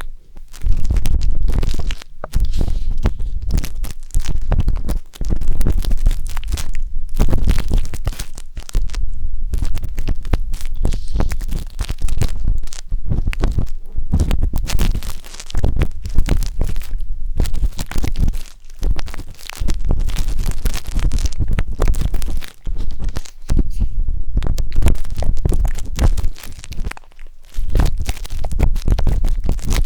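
Wooden skewer scraping and rubbing inside the silicone ears of a 3Dio binaural microphone: close, scratchy strokes with a strong low rumble, stopping briefly several times.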